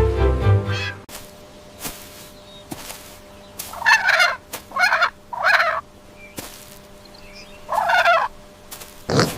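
Domestic turkey gobbling: four short gobbles, three in quick succession and a fourth about two seconds later.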